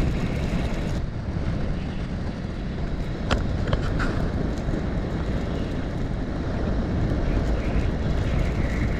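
A motor vehicle under way: a steady rumble of engine and wind with no let-up, broken by two sharp clicks a little past three seconds in.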